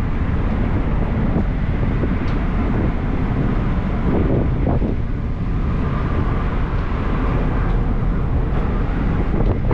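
Wind buffeting the microphone over a steady low rumble from a ferry under way at sea.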